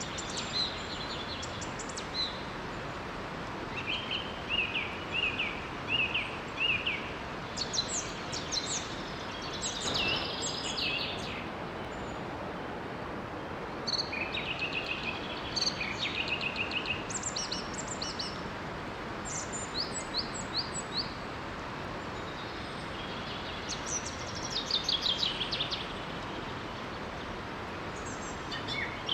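Songbirds singing in repeated short phrases and trills over the steady rush of a small waterfall.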